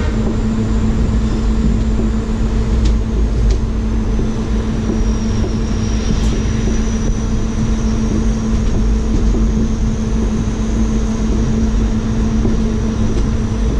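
Indian Railways passenger train coach running out of a station, heard from the open coach doorway: a loud, steady rumble of wheels on the track with a steady hum and a faint high whine, and a few sharp clicks about three seconds in and near the end.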